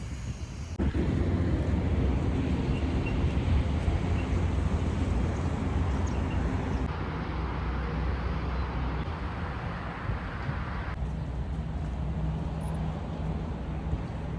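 Steady low rumble of a moving vehicle, with a noisy hiss over it. The sound changes abruptly about a second in, again near the middle and later on, like cuts between shots.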